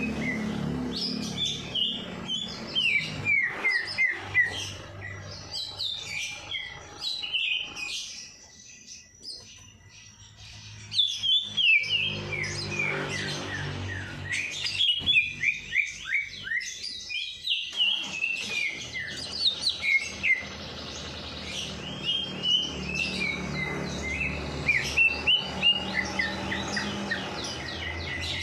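Many small songbirds chirping and twittering at once in a dense chorus of quick, overlapping chirps, dropping away for a couple of seconds about a third of the way in before picking up again.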